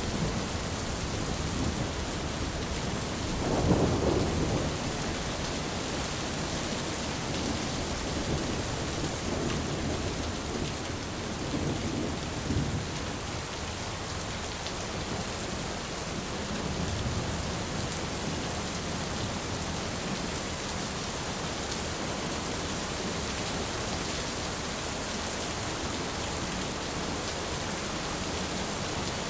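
Thunderstorm: steady rain with rolling thunder. The loudest rumble comes about four seconds in, and fainter, shorter rumbles follow later.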